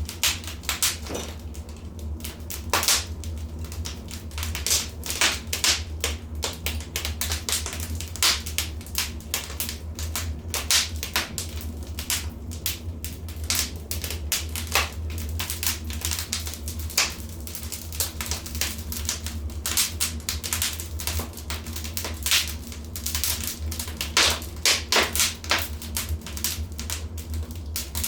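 Wood fire crackling in a fireplace: irregular sharp pops and snaps, many a second, over a steady low hum.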